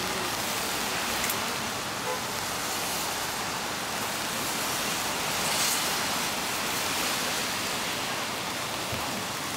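Steady rain falling on a city street, with the tyre hiss of a car passing on the wet road swelling about halfway through.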